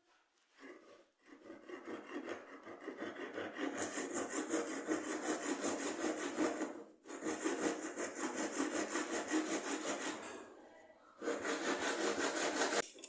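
A metal blade rubbed back and forth in rapid strokes on a homemade wooden sharpening tool, giving a steady rasping scrape. The scrape breaks off briefly about seven seconds in, fades out around ten seconds, and resumes loudly for a couple of seconds near the end.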